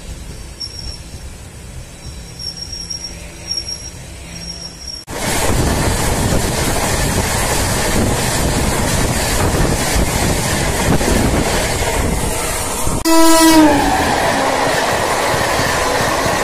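A passing express train rushing by on the adjacent track: a loud steady rumble and clatter of its coaches that starts abruptly about five seconds in, after a quieter stretch with faint high chirps. Near the end a short train horn blast sounds, its pitch dropping slightly.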